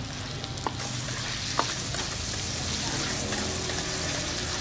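Goat meat, shallots and garlic sizzling in hot oil in a blackened wok, stirred with a metal wok ladle, with sharp clinks of the ladle against the wok about two-thirds of a second and a second and a half in.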